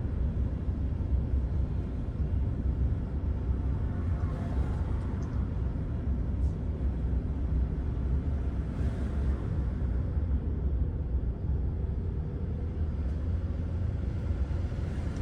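Steady low rumble of a car's road and engine noise heard from inside the cabin as it drives along.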